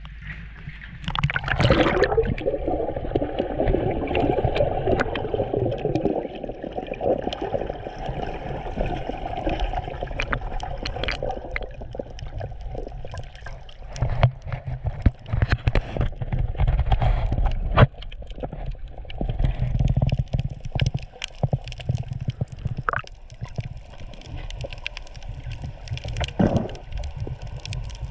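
Water bubbling and gurgling, heard underwater, with many scattered sharp clicks and a low rumble. A louder rush of bubbles comes about a second and a half in, and dense bubbling carries on for roughly the first ten seconds.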